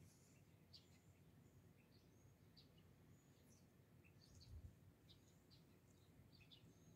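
Near silence with faint, scattered short high chirps of birds and a low background hum; a soft low bump a little past halfway.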